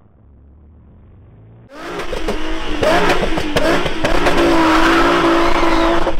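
Car engine revving hard. It comes in suddenly and loud after a quiet start, then climbs and holds at high revs near the end.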